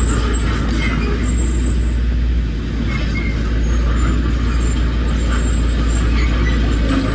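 Heavy earthmoving machinery's diesel engine running, a steady deep rumble.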